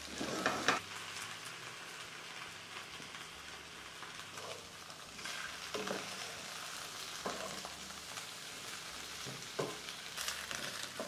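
Chicken pieces and potatoes sizzling steadily in olive oil in a frying pan over the heat, with a few short, louder sounds breaking through the sizzle, the loudest about half a second in.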